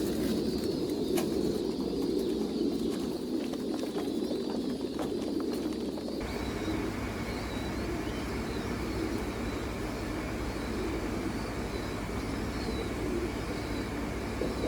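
Many domestic pigeons cooing together in a dense, continuous chorus. A few sharp clicks come in the first half.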